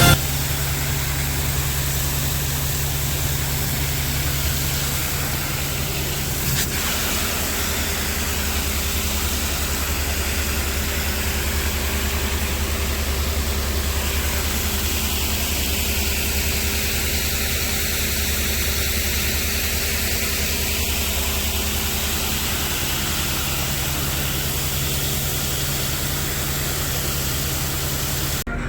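Farm machinery engine running at a steady speed, a constant low hum under a steady hiss, with one short click about six and a half seconds in.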